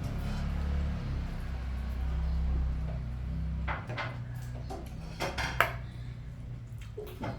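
Dishes and utensils clinking a few times, over a low steady hum that stops about four seconds in.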